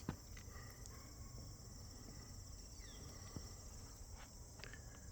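Faint, steady high-pitched insect chorus with a fine pulsing trill, over a low outdoor rumble and a few faint clicks.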